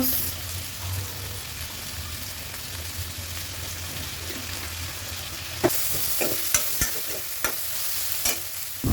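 Chicken dry fry sizzling in a kadai while it is stirred, with a steady frying hiss and sharp spatula scrapes and taps against the pan. The sizzle grows brighter about two thirds of the way through.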